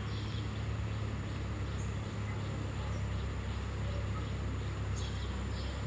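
Steady low background hum with a few faint, short high bird chirps: one near the start, one about two seconds in, and a couple near the end.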